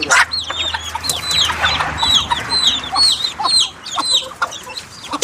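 Chickens peeping: a steady run of short, high, falling peeps, several a second, with a few sharp knocks among them.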